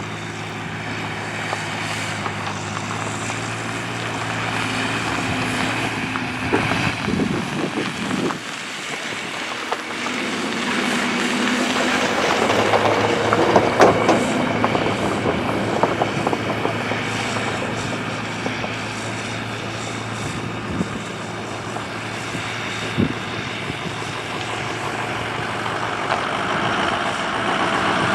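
John Deere 8300 tractor's diesel engine running steadily while cultivating. Its note shifts several times, with a brief dip in the low end about eight seconds in.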